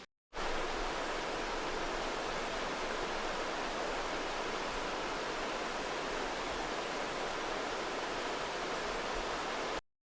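The Cascade River rushing: a steady roar of fast-flowing water. It starts after a brief gap and cuts off abruptly near the end.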